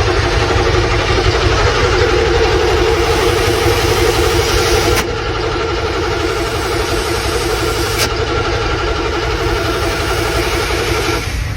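Vehicle engine running steadily just after a cold start, still warming up. It gets a little quieter about five seconds in.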